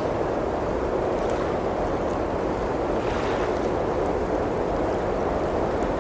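Steady blizzard wind, swelling a little about three seconds in, with a few faint crackles from a wood fire.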